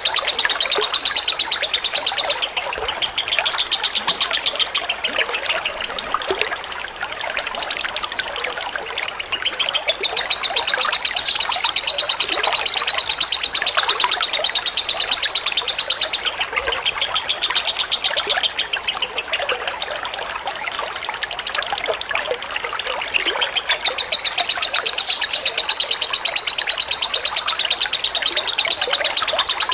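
Lovebird giving a long, rapid chattering trill (the 'ngekek' song), with steady trickling water beneath it. The chatter eases slightly twice, about a quarter of the way in and again past the middle.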